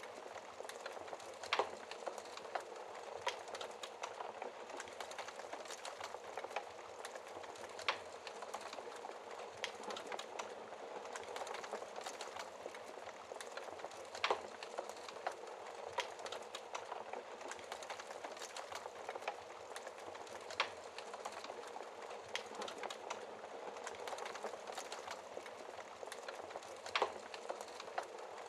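Wood fire in a fireplace crackling: a steady fine crackle and hiss of burning logs, with a sharp pop every few seconds.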